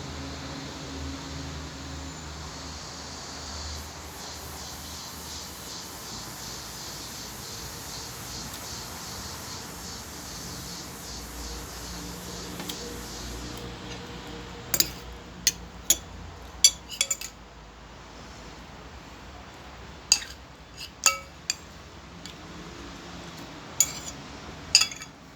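Cutlery clinking against a plate during a meal: about ten sharp clinks scattered through the second half, over a steady background noise.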